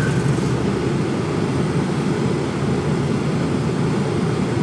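Mercedes Actros truck's diesel engine running steadily, heard from inside the cab as an even low rumble.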